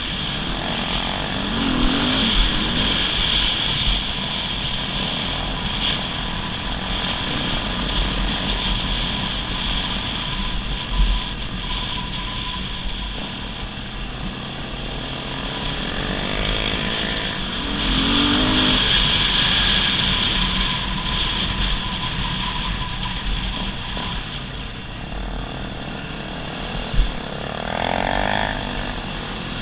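Dirt bike engine running steadily along a trail, with rushing noise throughout. The engine note rises briefly a few times.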